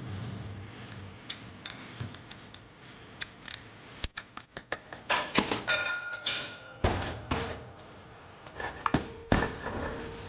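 Irregular clicks, knocks and clatter of objects being handled, busiest a little past the middle, with a brief ringing tone among them.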